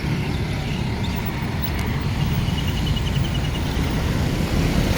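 Steady low rumble of road traffic, with a short run of quick high pips about two seconds in.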